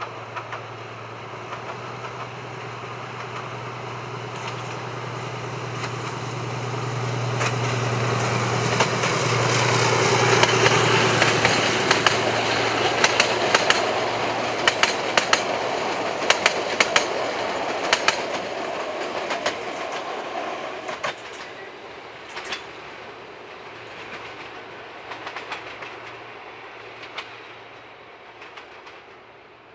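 A 760 mm narrow-gauge diesel train passing. The locomotive's engine hum grows louder as it approaches and goes by. Then the coaches' wheels click rapidly over the rail joints, the clicks thin out, and the sound fades as the train draws away.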